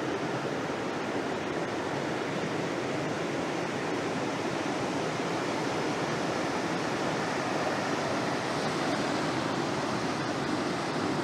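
Ocean surf from large waves breaking on the beach: a steady, even wash of noise, swelling slightly about eight to nine seconds in.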